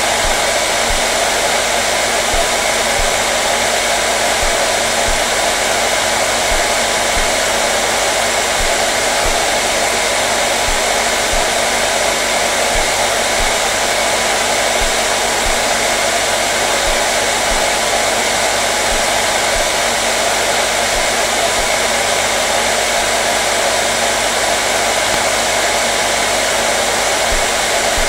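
Hair dryer running steadily: an even, unchanging blowing hiss with a faint motor hum underneath.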